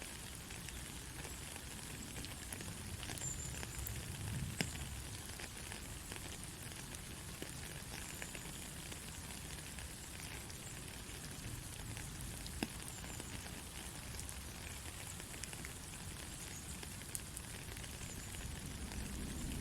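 Gentle rain falling steadily: an even hiss with scattered drops ticking.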